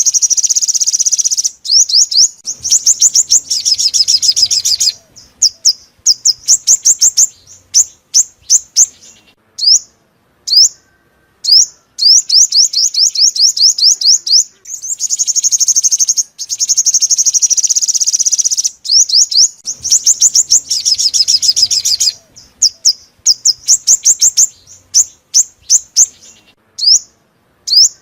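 Five-coloured sunbird song: fast, high-pitched trills of rapid chirps alternating with runs of single sharp chirps. The pattern repeats about every seventeen seconds, as a looped lure recording for trapping.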